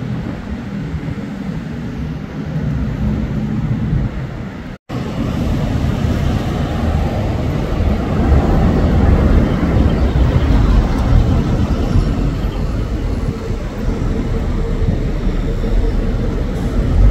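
Steady city street traffic noise with wind rumbling on the microphone. The sound cuts out for an instant about five seconds in.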